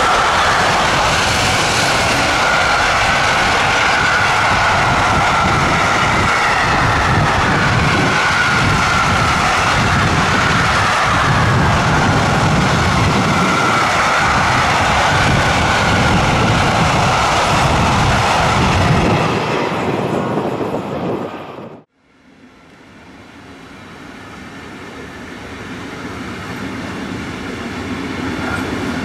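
Long container freight train passing close at speed: a steady rumble and clatter of wagon wheels on the rails, with a faint whine slowly falling in pitch. It fades and cuts off about 21 seconds in, and another train's rumble then grows louder as it approaches.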